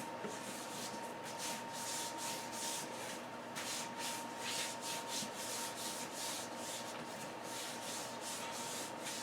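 Repeated rubbing and scuffing of a rubber dirt-bike tyre and inner tube being worked by hand onto the rim, a few irregular strokes a second, with a faint steady whine underneath.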